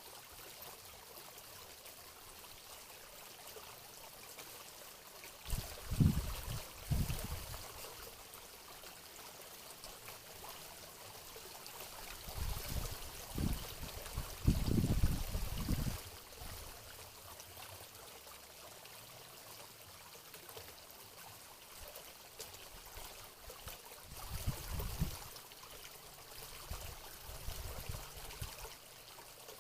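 Water running steadily with a trickling hiss, broken by a few low rumbling bumps: two around six and seven seconds in, a longer cluster around the middle, and another near the end.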